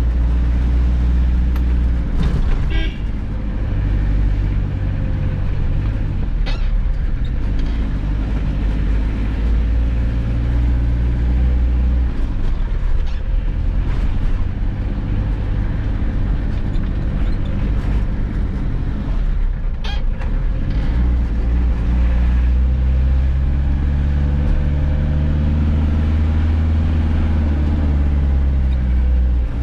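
Mitsubishi Pajero's engine running on the road, heard from inside the cab, its note dropping about twelve seconds in and then climbing steadily through the gears over the last several seconds. A few brief knocks from the cab break in now and then.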